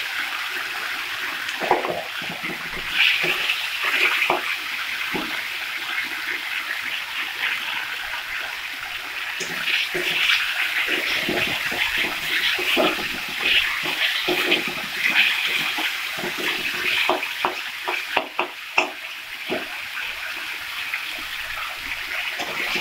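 Spice paste sizzling in hot mustard oil in a kadai, a steady frying hiss broken by frequent scrapes and knocks of a wooden spatula stirring against the pan. The masala is being fried until the oil separates.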